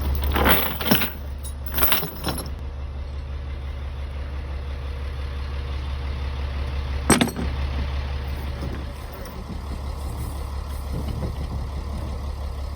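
Steady low rumble of an idling engine, with a sharp click about seven seconds in.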